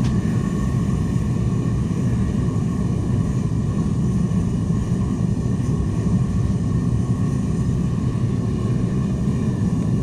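Propane gas forge burner running with a steady, even roar, not sputtering.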